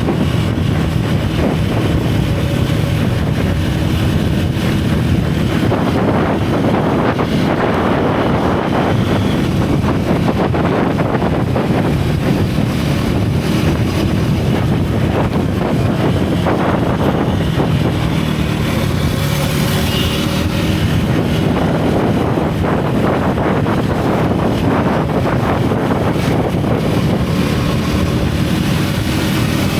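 Single-cylinder motorcycle engine and exhaust running under way, the engine note rising and falling as the throttle changes. Wind buffets the microphone throughout.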